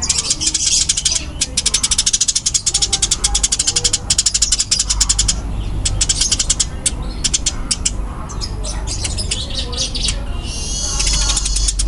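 Eurasian tree sparrows squabbling: dense, rapid, high-pitched chattering chirps, many to the second. Near the end comes a brief run of falling notes.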